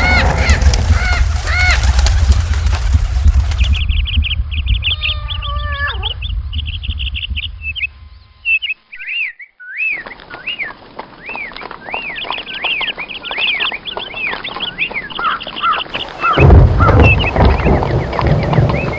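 Birds chirping in quick series of short rising-and-falling chirps, several a second, over a low rumble for the first few seconds and again near the end.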